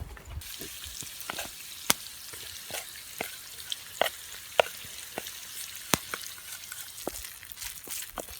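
Food sizzling in a frying pan over a campfire: a steady hiss that starts suddenly about half a second in, with many sharp pops and crackles through it.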